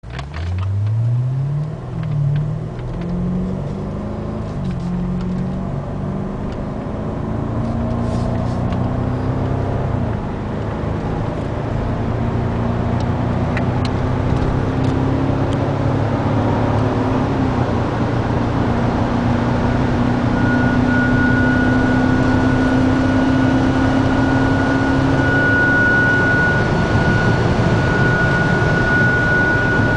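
A car heard from inside the cabin: the engine revs up through several quick gear changes, then holds high speed and high revs with a steady drone, its pitch creeping up, under a rushing noise. A gushing noise from the dashboard comes with the high speed and high revs. About two-thirds in, a steady high tone joins.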